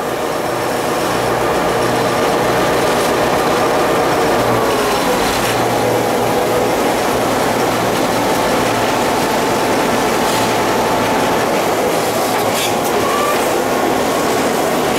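Train rolling along the track, heard from on board: a steady rumble of wheels on rail with a held whine above it that dips in pitch partway through.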